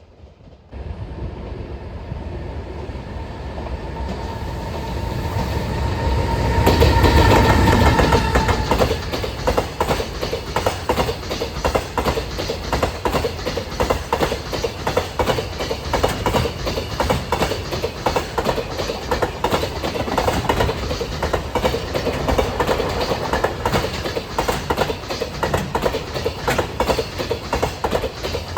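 Container freight train passing: the locomotive approaches and goes by, growing loud with a steady whine that stops as it passes, followed by a long run of wagons with wheels clicking rhythmically over the rail joints.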